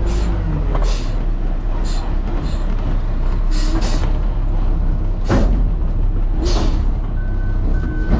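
Peterbilt truck's diesel engine running steadily, heard from the cab, with several short hisses at irregular intervals. A faint on-off beeping tone comes in near the end.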